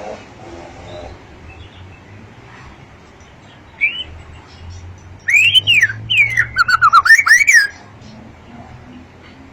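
White-rumped shama (murai batu) singing: one short whistled note about four seconds in, then a loud two-second burst of clear whistled notes sweeping rapidly up and down.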